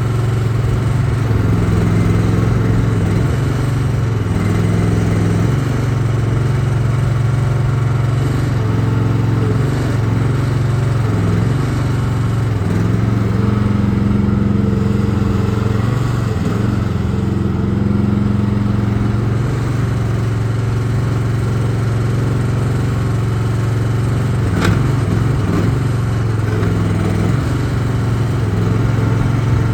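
Briggs & Stratton 420cc single-cylinder gas engine of a Battler 12 mini hydraulic excavator running steadily, its note dipping and picking back up several times. A single sharp click about twenty-five seconds in.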